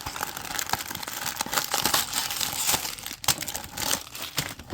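Plastic blind-box packaging crinkling and crackling as it is handled and opened, with many small sharp crackles.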